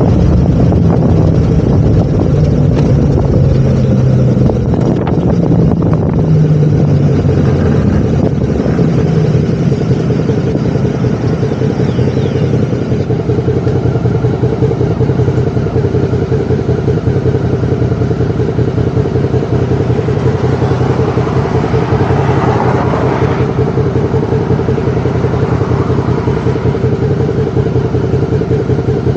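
Motorcycle engine running continuously on a ride. Its low pitch shifts a little over the first ten seconds or so, then holds steady.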